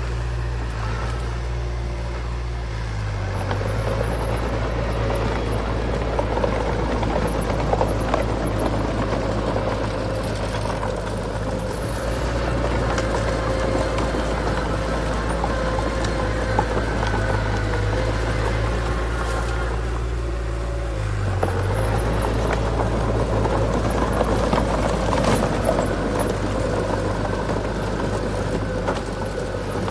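Heavy diesel engine of earthmoving machinery running steadily under load, its pitch shifting about 3 seconds in and again about 21 seconds in.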